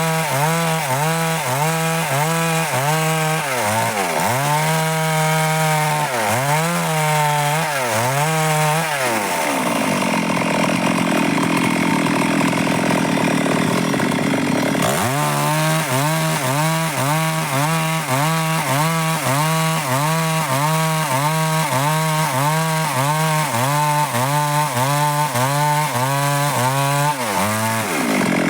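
Stihl MS 382 two-stroke chainsaw running at high revs through dry wood, its engine pitch dipping and recovering about twice a second as the chain bites. In the middle of the stretch the rhythm stops for a few seconds and the saw gives a steadier, harsher noise before the dipping resumes.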